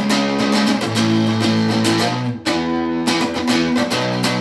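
Amplified guitar strumming chords in an instrumental passage between sung lines, with a short break about two and a half seconds in before the strumming picks up again.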